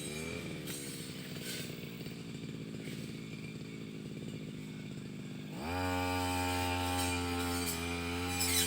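Small engine of a brush cutter (motorised grass cutter) easing back to a low speed, then revved up again to full cutting speed about five and a half seconds in, with a brief dip near the end.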